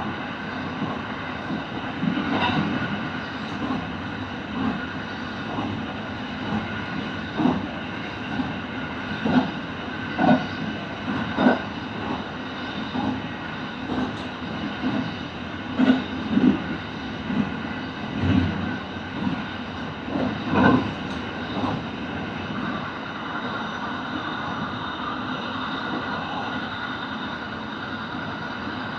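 Kintetsu limited express train running on the rails: a steady running noise with clicks of the wheels over rail joints every second or so, settling into a smoother steady run near the end.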